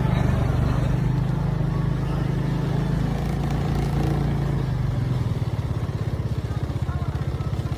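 An engine running with a steady low hum that becomes a fast, even pulsing in the last few seconds, then cuts off abruptly.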